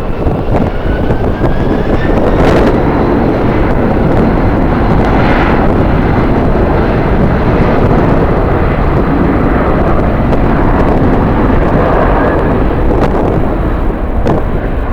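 Jet airliner engine noise, with a faint rising whine in the first two seconds, under loud strong-wind rumble on the microphone.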